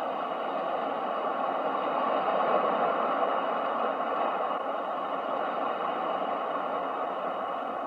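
Ocean waves washing in a steady rush, swelling to a peak about two and a half seconds in and then slowly easing.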